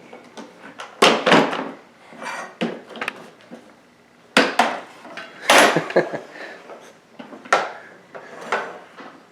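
Irregular clatter and knocks of hard toy parts being handled: about eight sharp hits spread unevenly, with quieter rattling between them.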